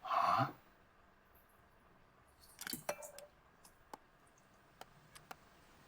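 Light clinks and clicks of tableware being handled: a short cluster of clinks with a brief ring about three seconds in, then a few scattered single ticks.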